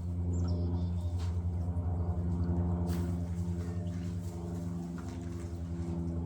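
Steady low machine hum, engine-like, under scattered snaps and rustles of evergreen and berry branches being handled and pushed into a pot. A short high bird chirp comes about half a second in.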